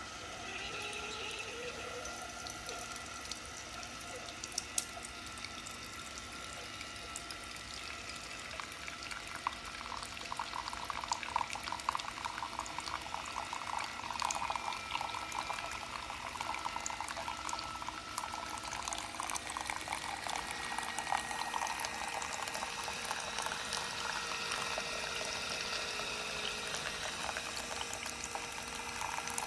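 Single-serve pod coffee maker brewing: hot liquid trickling and gurgling steadily into a cup, busier from about ten seconds in.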